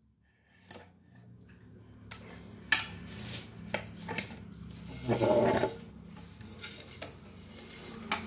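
Scattered light clinks, knocks and scrapes of a thin steel spear rod and a wooden homemade speargun being picked up and handled on a tiled floor.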